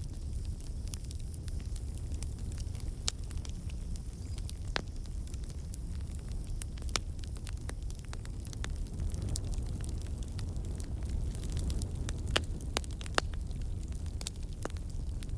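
Wood campfire burning: a steady low rumble of flame with irregular sharp crackles and pops from the logs, as water and sap in the wood turn to steam and escape.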